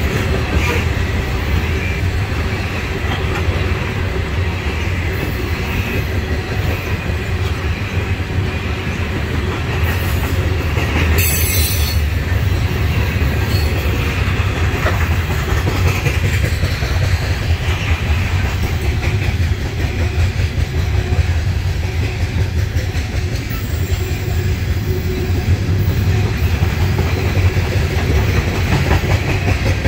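Loaded coal hopper cars of a freight train rolling past on steel wheels, a steady deep rumble on the rails, with a brief high screech about eleven seconds in.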